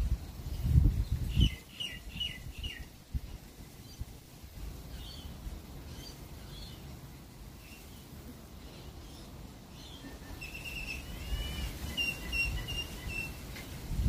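Bird calls: a quick run of four or five short chirps about a second and a half in, then a longer string of clear repeated notes from about ten to thirteen seconds. Low rumbling thumps near the start.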